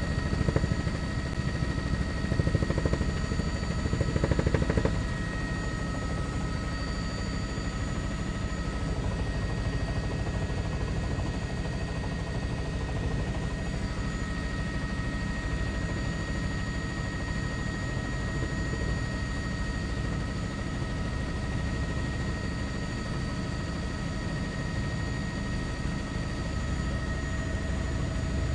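Helicopter turbine and rotor running steadily, heard from on board, with a constant high whine over the rotor noise; a little louder in the first few seconds.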